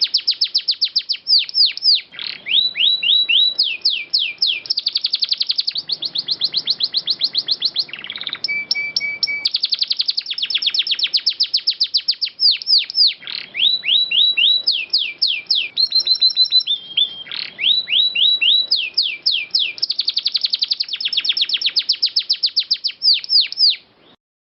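Domestic canary singing a long unbroken song of rapid rolls, alternating fast trilled runs with series of quick descending whistled sweeps. It stops suddenly near the end.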